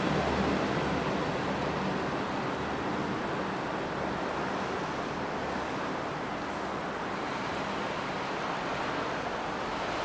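Rumble of a passing electric-locomotive-hauled passenger train dying away over the first few seconds, leaving a steady hiss.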